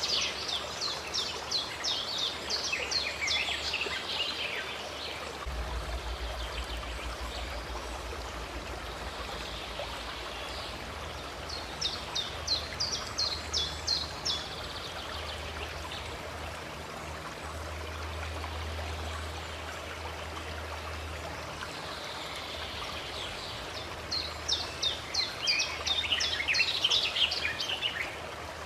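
Steady rush of a stream or small waterfall, with a bird singing three bouts of rapid, high repeated notes, at the start, near the middle and near the end.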